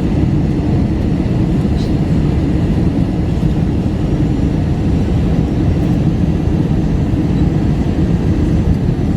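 Steady low rumble of jet engines and airflow heard inside the cabin of an Airbus A321 airliner.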